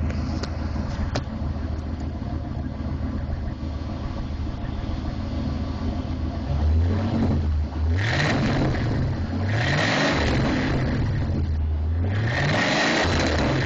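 1983 Chevrolet K10 Silverado's 400 small-block V8 idling steadily, then revved up and down several times from about six seconds in.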